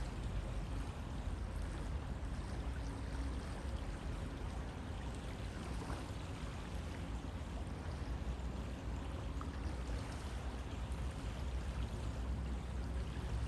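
River water flowing, a steady rushing with a deep low rumble.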